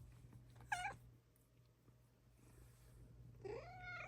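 Bengal cat meowing twice: a short meow just under a second in, and a longer meow near the end that rises and then holds its pitch.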